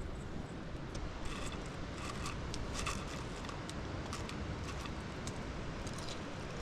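Homemade french fries being eaten: scattered crisp crunching clicks begin about a second in, over a steady low rumble.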